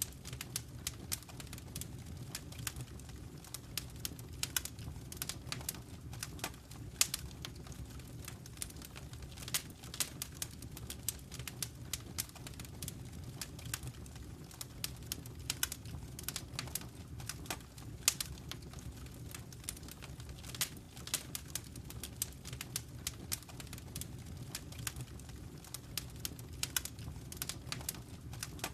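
Wood fire in a fireplace crackling: irregular sharp pops and snaps over a steady low rumble of the flames, with a couple of louder pops along the way.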